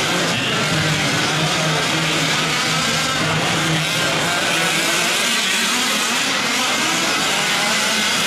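Several 1/5-scale gas RC trucks' small two-stroke engines racing together, their overlapping pitches rising and falling as they rev through the track.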